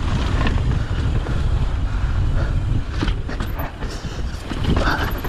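Wind rushing over the microphone of a camera riding on a mountain bike during a descent, with tyres on dry, loose dirt. The bike rattles and knocks over bumps a few times.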